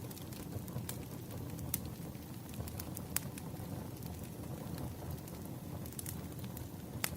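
Wood fire crackling: a steady low rumble of burning logs with irregular sharp pops and snaps, the loudest pop near the end.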